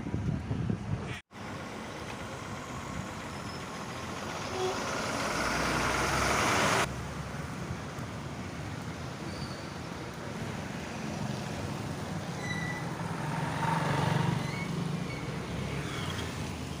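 Steady road and engine noise of a vehicle driving. It swells for several seconds and then cuts off abruptly about seven seconds in, with a brief dropout about a second in.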